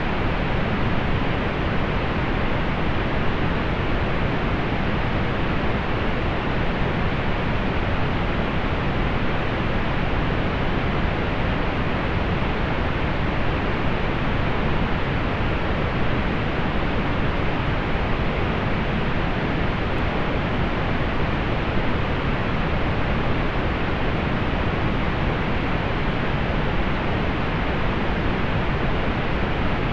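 Steady pink noise: an even, unchanging hiss weighted toward the low end, falling off above about 4 kHz.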